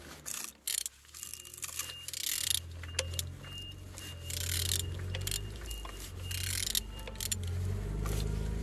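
Metal clinking and scraping of a wrench turning a used EP6 engine's crankshaft over by hand, in several short bouts, with a thin squeak coming and going; the engine turns freely.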